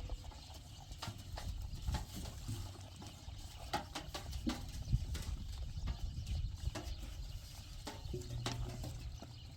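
Hooves of livestock clopping at an uneven pace, sharp irregular knocks over a low steady rumble.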